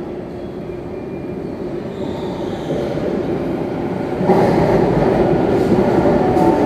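Sydney Trains Waratah double-deck electric train pulling into the station platform. Its running noise grows steadily and becomes clearly louder about four seconds in, as the carriages draw alongside.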